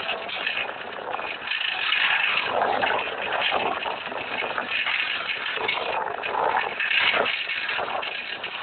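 Passenger train moving off from a station: an uneven, noisy din of rattling and clatter with no clear engine note.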